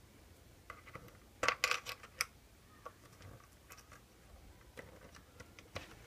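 Small metal parts clinking and clicking as they are handled and sorted by hand: a quick cluster of sharp clicks about one and a half to two seconds in, then a few lighter ticks.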